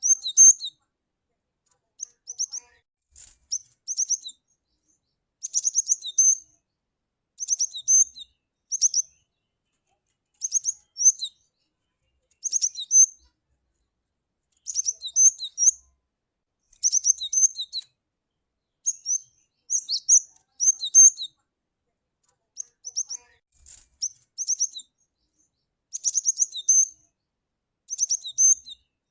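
Cinereous tit (gelatik batu) calling: short phrases of sharp, high chirping notes, repeated about every two seconds with silence between them.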